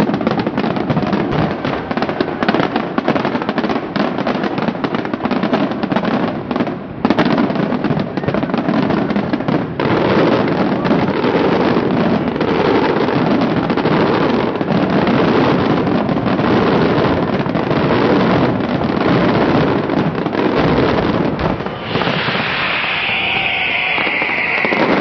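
Dense fireworks barrage: rapid bangs and crackling overlapping without a break. Near the end a high, slightly falling whistle-like sound rises over the bangs.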